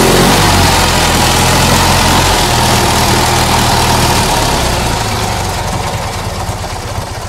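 Fiat 126p's air-cooled two-cylinder engine idling on its first run after more than 30 years standing. About five seconds in it falters and stalls, and the sound dies away.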